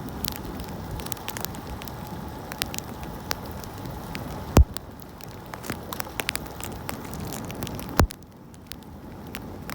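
Crackling hiss of a bicycle riding on a wet road in the rain, dotted with small ticks like drops or grit. There are two sharp knocks, about halfway through and again near the end, and after the second the noise drops lower.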